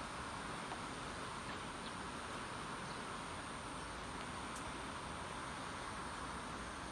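Steady outdoor background hiss with no distinct events, the even noise of a stormy morning outside.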